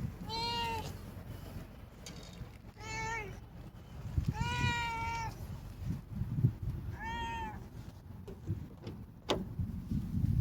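A domestic cat meowing four times, each meow a clear pitched call of about half a second to a second, spaced a second or two apart. A sharp click comes near the end.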